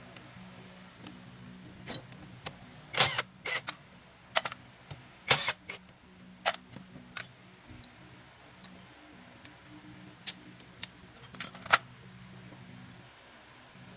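Metal hand tools and parts clicking and clinking in irregular, sharp knocks during mechanical repair work, loudest about three and five seconds in, over a faint steady low hum.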